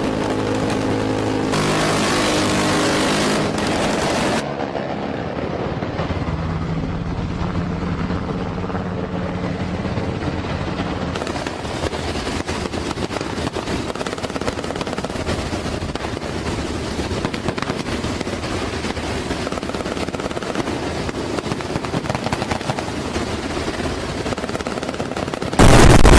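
Helicopter running with a rapid, steady rotor chop. An engine hum is heard in the first few seconds, and the sound gets much louder and harsher just before the end.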